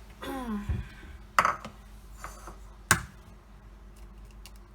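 A brief bit of voice, then two sharp clinks of kitchen utensils or dishes knocking together, about a second and a half apart, followed by a few faint clicks.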